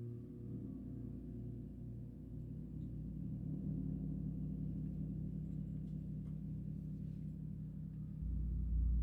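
Gong ringing with a low, wavering hum that swells gradually, growing louder again about eight seconds in.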